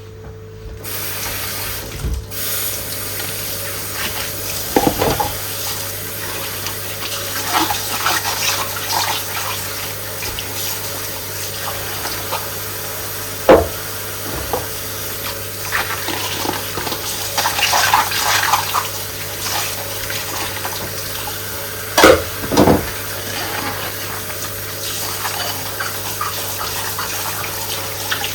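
Kitchen tap running into a sink while dishes are washed by hand in rubber gloves; the tap comes on just under a second in. Dishes clink and knock against each other and the sink now and then, the loudest a quick pair of clatters about two-thirds of the way through.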